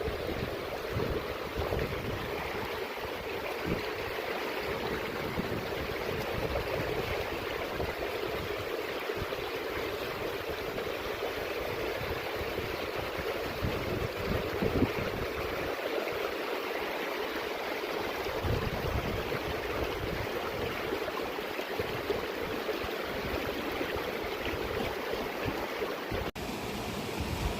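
Mountain stream flowing steadily over rocks, with gusts of wind buffeting the microphone.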